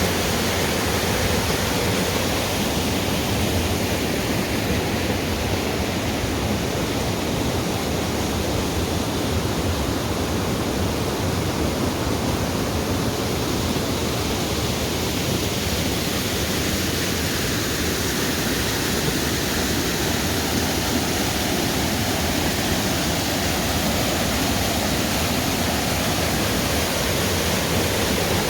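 Waterfall rushing: a loud, steady, even hiss of falling water that does not change.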